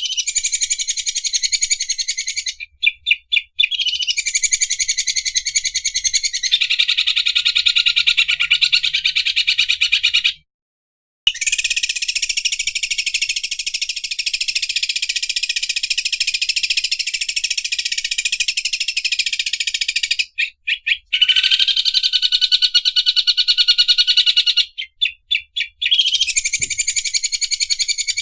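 Green leafbird (cucak ijo) singing its 'overlock machine' song: long, very fast high-pitched rattling trills that run for several seconds at a time, broken by short pauses, with one dead-silent break about ten seconds in.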